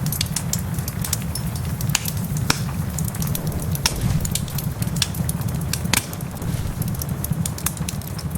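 Wood fire crackling in a fireplace, with frequent sharp pops of different sizes over a steady low rumble.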